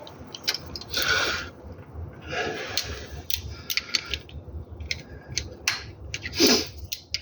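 Hand tools being worked on the car: scattered sharp clicks and short runs of clicking, with a few brief scraping bursts.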